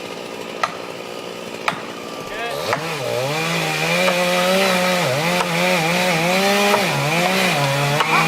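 A small engine or motor running, coming in about three seconds in with its pitch dipping and rising again and again, after two sharp clicks.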